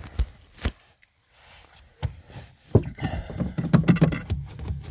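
Knocks and clunks inside a 1967 VW Beetle as the accelerator pedal is pumped to prime the cold carburettor before a start, a few sharp knocks at first, then a denser low clatter over the last two seconds.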